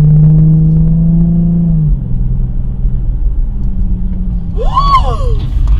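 Car engine running, a steady hum that drops in pitch and level about two seconds in, over a low road rumble. Near the end a brief high squeal rises and falls.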